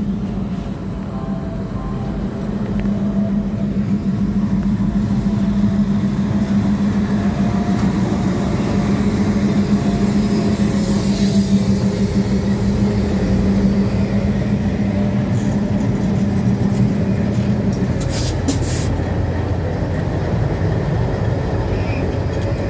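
Passenger train running past on the tracks: a steady rumble of wheels on rails with a low hum that stops about three quarters of the way through, and a few sharp clicks shortly before that.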